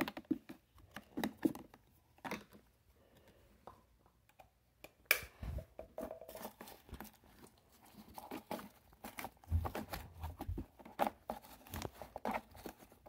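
Plastic toy garbage trucks being handled and moved about: irregular clicks, taps and short scrapes of plastic, with a few soft low thumps near the end.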